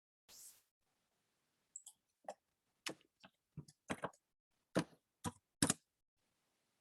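Irregular sharp clicks from a computer mouse and keyboard, about ten over four seconds, as someone works a computer. A faint, brief soft noise comes just before them.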